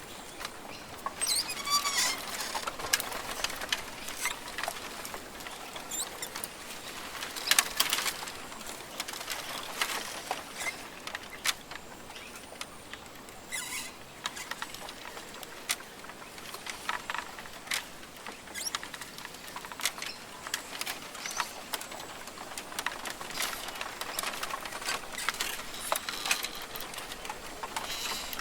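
Rainforest ambience: irregular sharp ticks and patter close to the microphone, with a few brief bird calls, the first about two seconds in.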